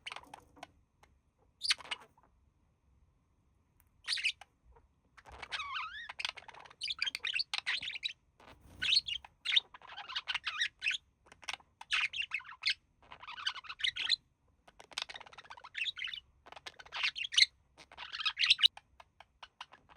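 Budgerigars chirping and warbling: a couple of short, separate chirps, then from about five seconds in a run of fast chattering phrases in quick bursts.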